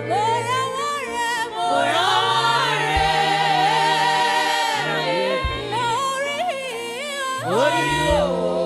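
Gospel singing: a voice holding long notes and sliding through melismatic runs over a steady, sustained backing chord.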